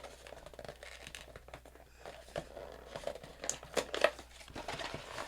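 Chocolate-bar packaging crinkling and tearing in the hands as it is handled and opened: a run of irregular crackles and scrapes.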